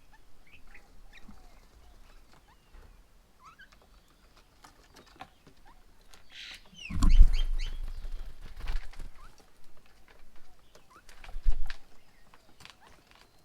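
Birds at a feeding table: scattered short chirps and call notes, with a burst of louder calls about seven seconds in. Low thumps and clicks come with it and again near the end.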